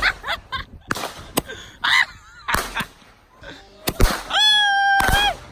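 Roman candles firing: a string of sharp pops at irregular intervals, about a second apart. Near the end comes a long, high-pitched shriek held at one pitch.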